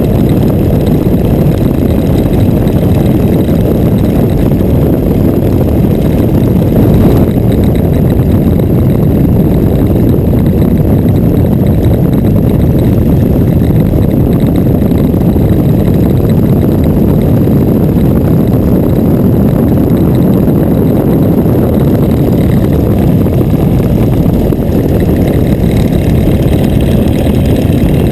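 Boeing Stearman biplane's radial engine and propeller running steadily at power through aerobatic manoeuvres.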